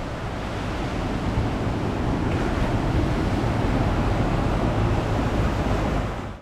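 Sea waves washing on a sandy beach, with wind on the microphone, as a steady rushing noise.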